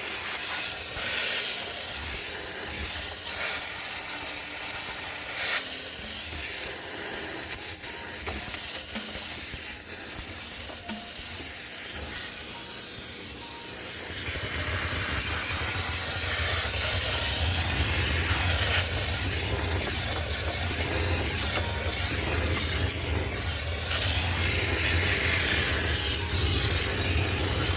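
High-pressure steam cleaner hissing steadily as it sprays steam to sterilise a sneaker washing machine. A low steady hum joins in about halfway through.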